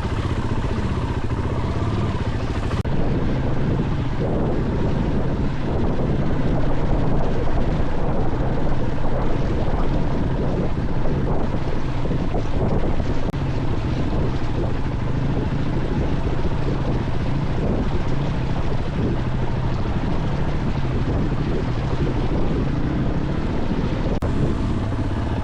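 Husqvarna FE 501 enduro motorcycle's single-cylinder four-stroke engine running continuously while the bike is ridden off-road.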